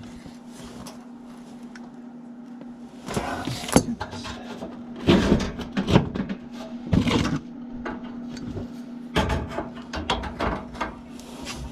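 Work handling noises: several bursts of knocking, scraping and rattling over a steady low hum.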